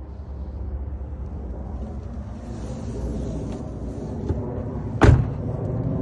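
Scania S500 truck's 13-litre inline-six diesel running steadily with a low rumble. About five seconds in, a door slams shut once, sharply and loudly.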